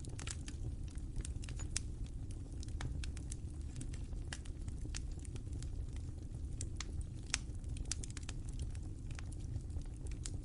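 Fire crackling, with irregular sharp pops over a low steady rumble.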